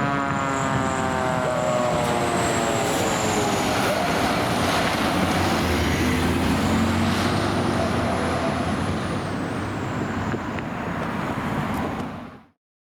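A fire engine's mechanical siren winding down, its falling pitch fading out over the first few seconds, leaving the engine's diesel running with steady road noise. The sound cuts off abruptly near the end.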